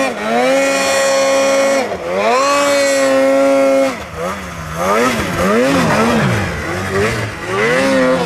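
Snowmobile's two-stroke engine held at high revs, dropping briefly about two seconds in and climbing back. Through the second half it revs up and down in quick swings.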